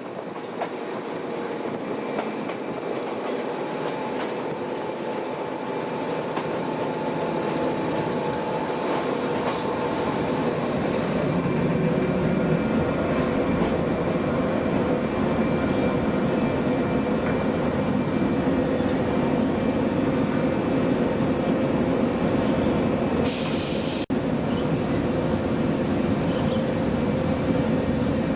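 Old JNR-type electric train running on the rails. The noise grows louder over the first dozen seconds, then holds steady, with a short sharp knock a few seconds before the end.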